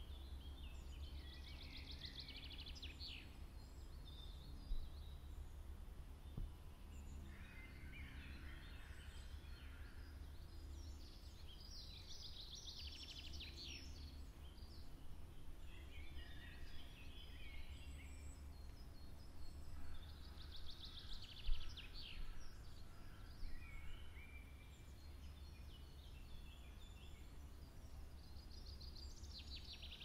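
Birds singing. A short, fast trilled phrase comes back every eight to ten seconds, other chirping phrases fall in between, and a faint steady low hum runs underneath.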